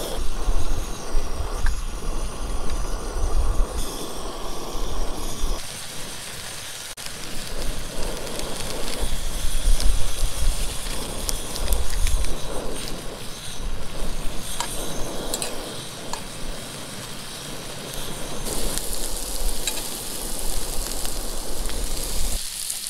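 Trout fillets and hash browns frying in butter in a cast-iron skillet on a portable gas camp stove turned up high: a steady sizzle with the burner's hiss. Gusts of wind on the microphone rumble in and out.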